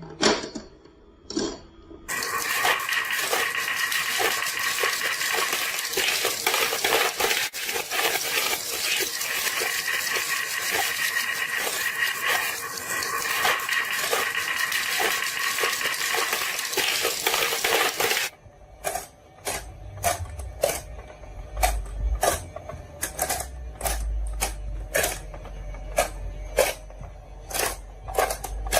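Marbles rolling and clacking through a marble run. A dense, continuous clatter of many marbles lasts about sixteen seconds, then separate sharp clicks follow every second or so over a low rumble.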